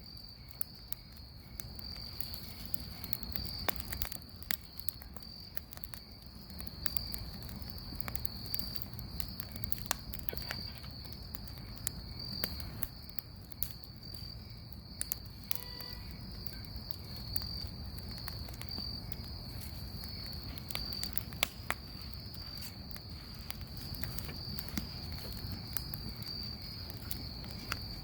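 Crickets trilling steadily and high-pitched, over a bonfire crackling with irregular sharp pops and a low rumble.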